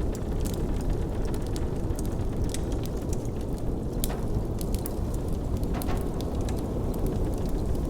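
Crackling wood fire with frequent small snaps and pops scattered irregularly, over a steady low rush of blizzard wind.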